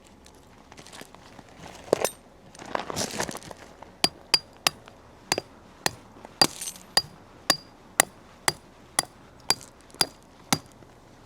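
Hammer driving long steel tent pegs into frozen ground. About a dozen sharp metallic strikes, roughly two a second, each with a brief ring, start about four seconds in after some rustling.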